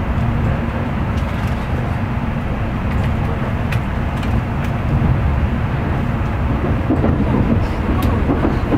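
Tokaido Shinkansen train running, heard from inside the carriage: a steady low rumble of wheels on rail with a constant hum.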